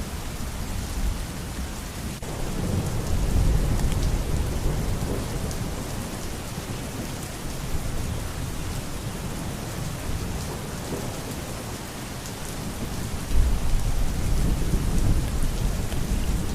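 Steady rain falling, with rolling thunder rumbling low underneath, swelling about three seconds in and again near the end.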